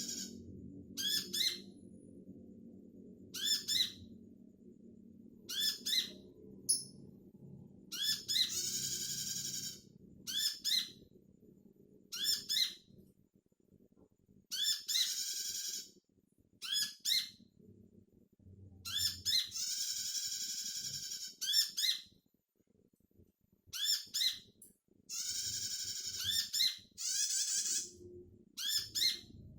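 Sunbird calls played as a lure recording to set caged birds singing: high-pitched bursts repeated again and again, some brief and some lasting about a second, with short gaps between them. A faint low hum lies underneath.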